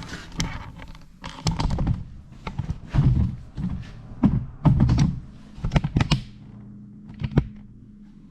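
A string of irregular knocks and clunks as metal pipe pieces are handled and set against each other on a workbench, over a steady low hum.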